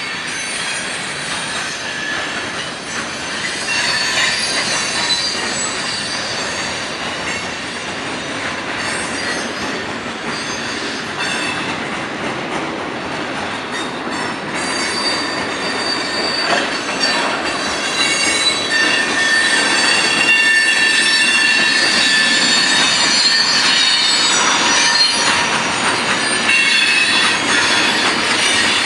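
Freight cars of a passing train, boxcars then tank cars, rolling by with the steady rattle and rumble of steel wheels on rail. Over it, shifting high-pitched wheel squeal comes and goes, growing louder about two-thirds of the way through.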